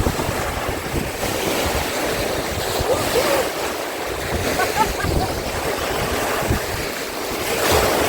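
Wind buffeting the microphone and water rushing and splashing around a moving jet ski, a steady gusty rush with no clear engine note.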